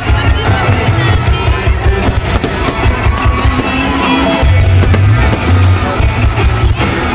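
Loud music with deep bass playing while fireworks shells burst overhead, with repeated bangs and crackles mixed in throughout.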